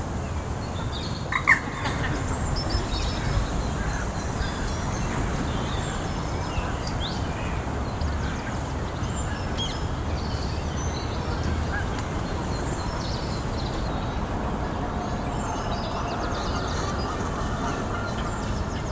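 Scattered short bird chirps over a steady low rumble, with one louder call about a second and a half in.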